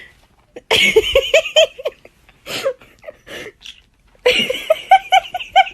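Pet parrot imitating human laughter: two bouts of quick, repeated 'ha-ha' syllables with a short pause between.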